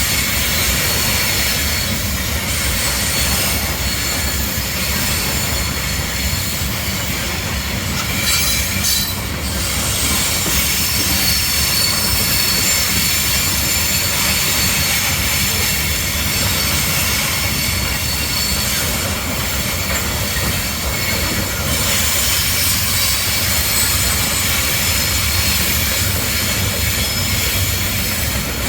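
Slow-moving Kansas City Southern train rolling past, its steel wheels squealing against the rails in thin high-pitched tones over a steady low rumble.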